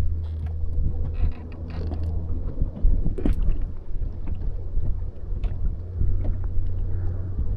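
Boat motor running with a steady low hum, with wind buffeting the microphone and occasional knocks.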